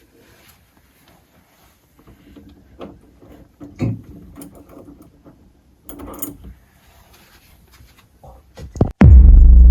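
Quiet, scattered small clicks and rattles of something mechanical being handled. About nine seconds in, a very loud, deep electronic bass tone cuts in suddenly.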